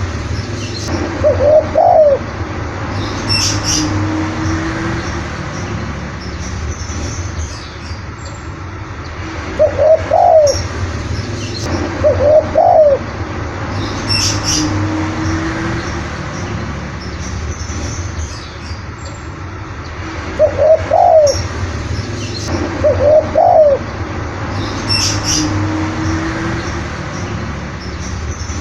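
Spotted dove cooing in a call that repeats about every 11 seconds: two short rising-and-falling coo phrases, then one lower drawn-out coo. Brief high chirps sound just before each long coo, over a steady background hiss.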